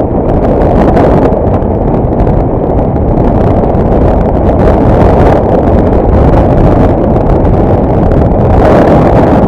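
Loud, steady wind buffeting the microphone on a moving motorcycle, with the rumble of the bike and road underneath.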